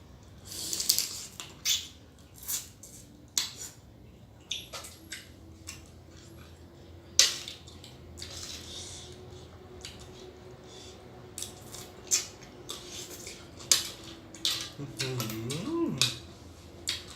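Scattered sharp clicks and clacks of a utensil on a plate and of blue crab shell being cracked apart while eating, at irregular intervals.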